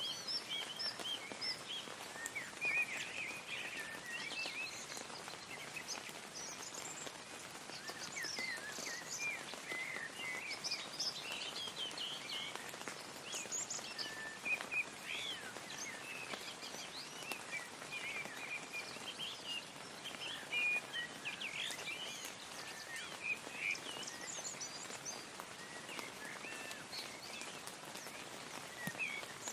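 Light rain falling steadily, a soft even patter, with many songbirds chirping and warbling over it throughout.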